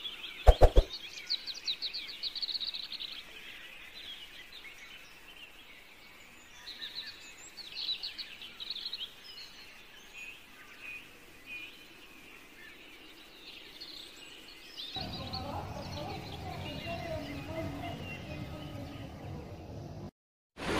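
Small birds chirping and twittering in the background, with two loud sharp clicks a little under a second in. A steadier background hiss comes in about three-quarters of the way through.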